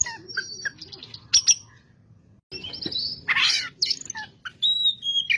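Oriental magpie-robin (kacer) in full song: a quick run of varied whistles and chirps. It breaks off briefly, then gives a loud harsh rasping note a little after three seconds in before the whistling resumes.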